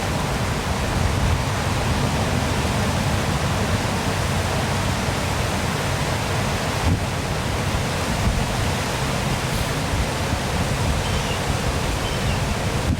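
Waterfall pouring steadily, a constant rushing noise with a deep rumble underneath. A few faint high chirps come in near the end.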